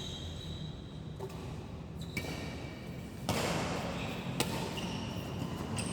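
Badminton play: a few sharp racket strikes on the shuttlecock, about two seconds apart, with short squeaks of shoes on the court floor and a burst of noise about three seconds in.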